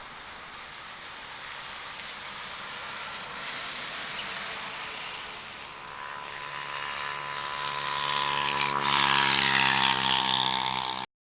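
Scania diesel bus approaching, its engine drone and road noise growing steadily louder in the second half, then cutting off suddenly near the end.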